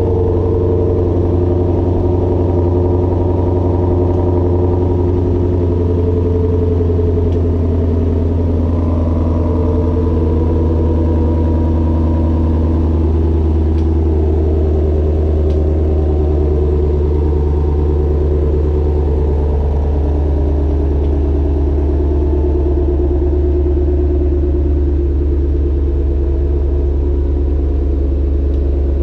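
2020 Shelby GT500's supercharged 5.2-litre V8 idling steadily after a cold start, a loud, even, low drone.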